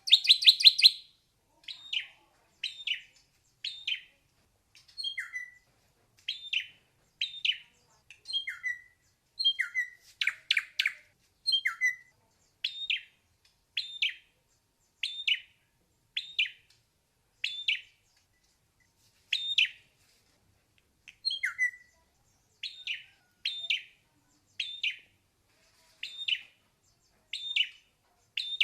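Ashy drongo singing: a run of short, sharp whistled notes about one a second, some dropping in pitch at the end. A harsh, rapid rattling burst comes at the start and again about ten seconds in.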